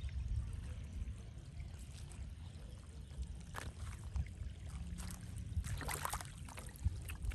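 Water sloshing and trickling over a steady low rumble, with a few short splashes, the strongest cluster about six seconds in.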